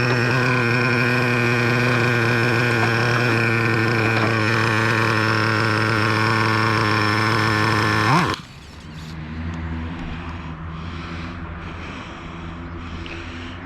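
Traxxas Revo 3.3's two-stroke nitro engine running at a steady idle, then dying suddenly about eight seconds in. A fainter low hum continues after it stops.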